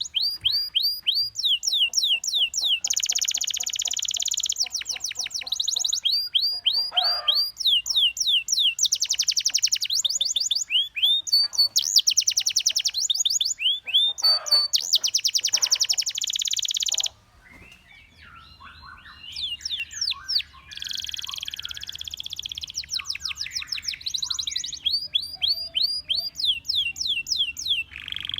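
Domestic canary singing: long fast trills of rapidly repeated, downward-sweeping high notes, switching to a new trill every second or two. The song drops away briefly about seventeen seconds in, then resumes with softer notes before the fast trills return.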